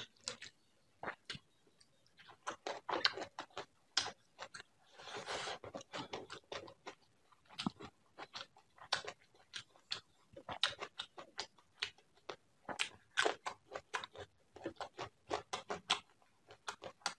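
Close-miked chewing of rice and prawn curry: wet mouth smacks and clicks, irregular and several a second, with fingers squishing curry into the rice.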